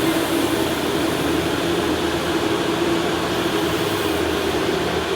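Electric go-kart running, its motor giving a steady, slightly wavering whine over a continuous rushing noise.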